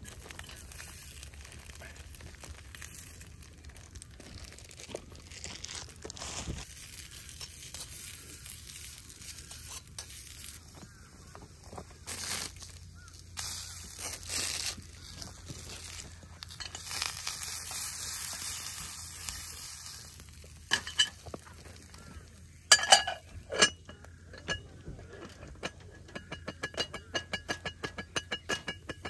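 Sausages sizzling in a cast iron skillet over a wood fire, with the wood crackling. About 23 seconds in come two loud clanks of cast iron cookware on the grill grate.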